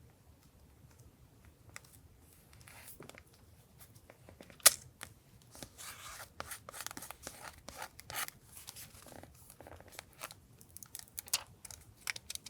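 Paper being handled and torn for a collage journal: rustling and tearing with scattered small clicks and taps, and one sharp click about five seconds in.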